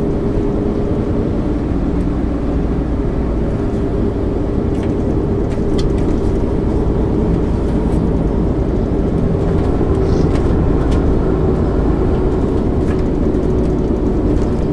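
MAN ÜL 353 intercity bus heard from inside while under way: a steady diesel engine and drivetrain drone with a held whine, with road noise and a few light rattles.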